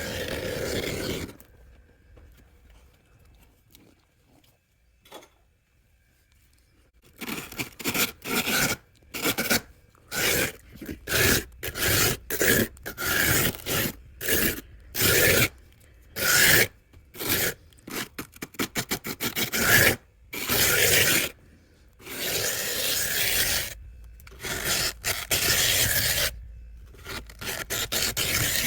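Soft freezer frost being scraped: one loud rasping stroke at the start, a pause of several seconds, then a long run of quick rasping strokes, a few of them drawn out for a second or two.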